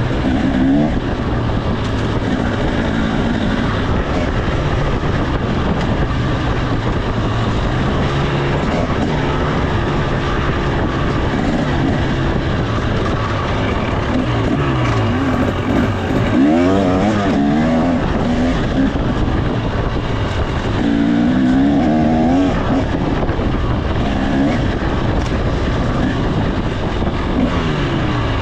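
2025 KTM 300 XC's two-stroke single-cylinder engine being ridden hard, its pitch rising and falling again and again as the throttle opens and closes.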